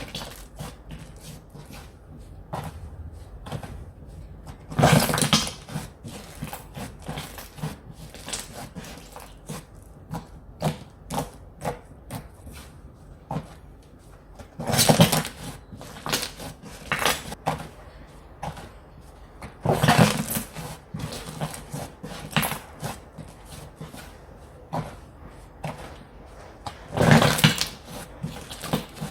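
Slime being squished, stretched and poked by hand, with many small sticky clicks and pops and four louder squelching presses spread through.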